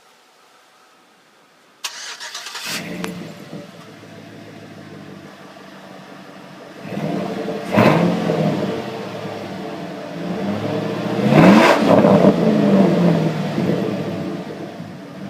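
A 2005 Chevy truck's 5.3-litre V8 starting up, with a short crank about two seconds in, then idling through a dual exhaust with an AP Xlerator performance muffler. It is revved twice, the pitch rising each time, before settling back to idle.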